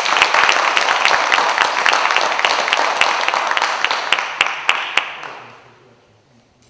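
Audience applause, many hands clapping, dying away about five to six seconds in.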